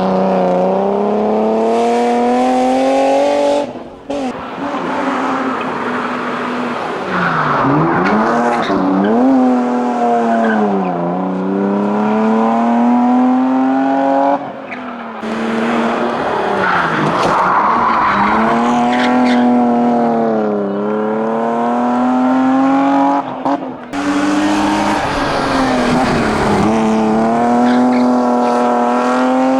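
BMW 3 Series hillclimb race cars at full attack, the engine revving hard up through the gears and falling away at each shift and braking point. Tyre squeal comes in the corners. The sound breaks off sharply at a few cuts between passes.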